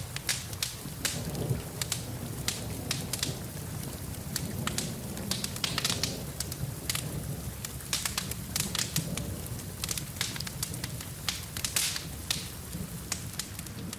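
Wood fire crackling in a fireplace, with frequent irregular sharp pops, over a steady hiss of falling rain.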